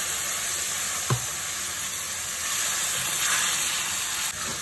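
Green curry paste frying in coconut milk in a frying pan, sizzling steadily while a wooden spatula stirs it, with one knock about a second in.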